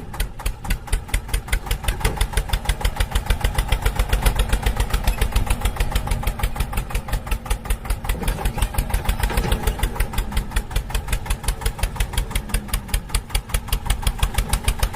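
Tractor diesel engine idling with a steady, even chug of about six beats a second.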